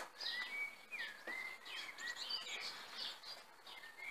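Bird song: a run of quick chirps and whistles that slide up and down in pitch.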